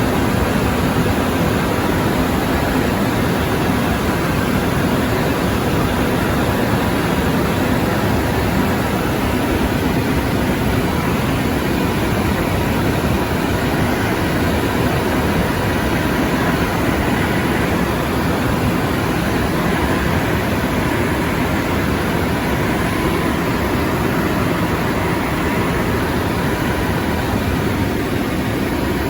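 Steady cockpit noise of a small airplane in flight, its Rolls-Royce M250 turboprop engine running at a constant setting with a faint thin whine over the drone.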